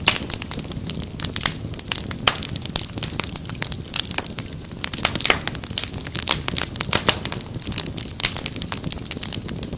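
Wood fire crackling in a fireplace: a dense run of irregular sharp pops and snaps over a steady low rumble of flames.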